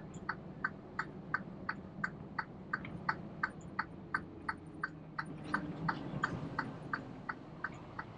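Truck cab's turn-signal flasher clicking steadily, about three clicks a second, over the low hum of the idling engine as the truck is manoeuvred into a parking spot.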